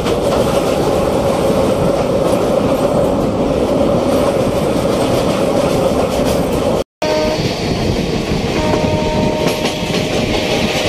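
Loud running noise of a moving passenger train heard from an open coach doorway, wheels clattering on the rails, broken by a moment of dead silence about two-thirds through. In the last couple of seconds a train horn sounds a steady blast over the running noise.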